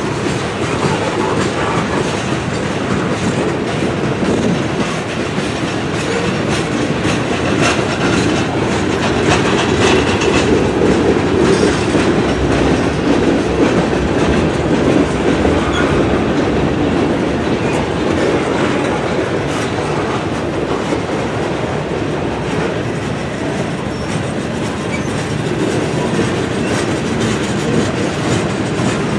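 Freight cars of a manifest train rolling steadily past, their wheels clicking over rail joints.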